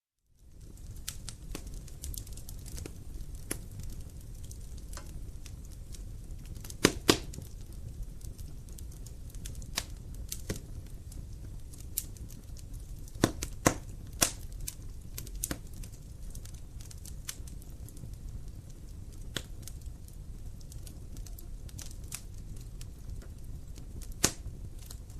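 Wood fire burning in a fireplace: a steady low rumble of the flames with irregular crackles and pops of burning logs, a few sharper pops standing out about a quarter, half and near the end of the way through.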